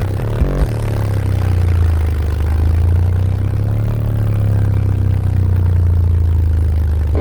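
Heavy bass from a pickup truck's car audio system, two Sundown Audio ZV5 18-inch subwoofers, holding a deep low bass note at high volume, with a fainter tone that slowly rises and falls about halfway through.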